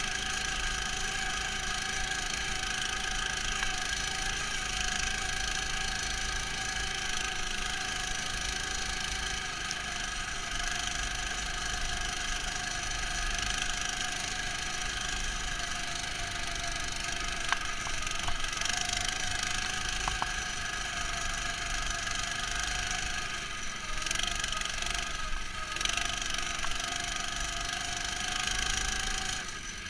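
The engine of a Neva MS-1 motorized snow tow running steadily, sounding muffled through the camera's protective case. Its pitch sags and wavers briefly about 24 seconds in, then recovers.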